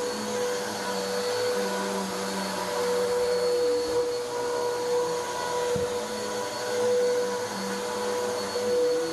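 Vacuum cleaner running steadily on carpet, a constant motor whine with a low hum that shifts in pitch and level every second or two as the machine is worked over the floor.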